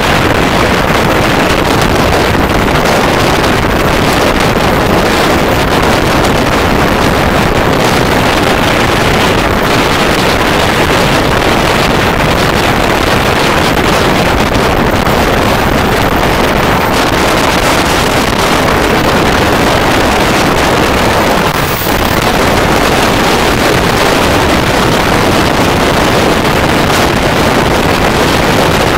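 Steady rush of wind on the microphone mixed with the running noise of an Indian Railways passenger train at speed, heard from the side of the moving coach.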